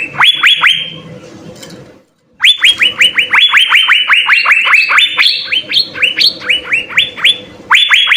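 Asian fairy-bluebird (cucak biru) singing in fast runs of sharp, down-slurred whistled notes, about six a second. The song breaks off briefly about two seconds in and again near the end, then resumes each time.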